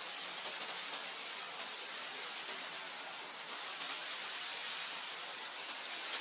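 Wind blowing across grassland: a steady rushing hiss that swells and eases slightly.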